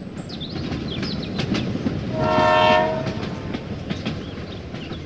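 A horn sounds once, briefly, a little over two seconds in, over a steady rumbling, clattering running noise.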